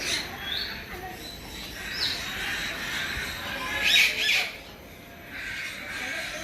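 Birds calling: a couple of short rising whistles, then a louder burst of calls about four seconds in.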